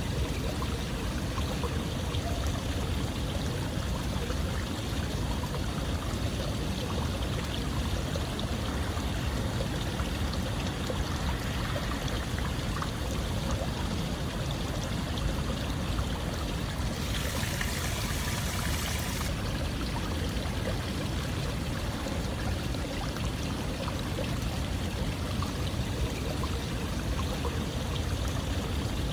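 Steady running water, an even rushing with no pauses, and a brighter hiss for about two seconds a little past the middle.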